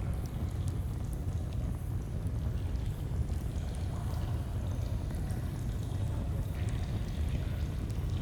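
Flowing stream running with a steady low rush, with faint scattered crackles and pops of a campfire over it.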